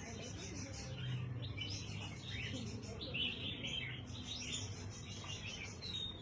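Caged parrots chirping in a steady run of short, overlapping chirps, with a short clear whistle near the end.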